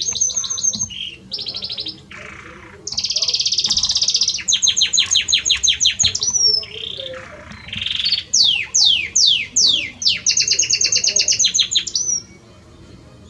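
Male Belgian canary singing to his female: fast high trills and rolling runs of repeated notes, with a series of quick downward-sweeping whistles in the middle, stopping shortly before the end.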